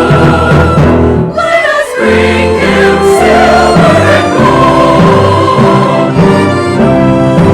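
Church choir singing with orchestral accompaniment, with a brief break in the sound about a second in.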